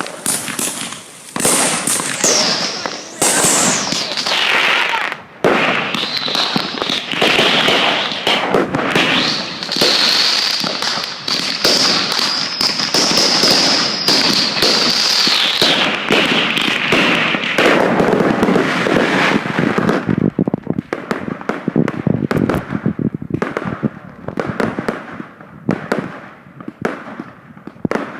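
Fireworks going off in a dense barrage of bangs and crackles. Shrill whistles run through it, one rising and falling early and one held for about ten seconds in the middle. Near the end comes a rapid run of sharp pops.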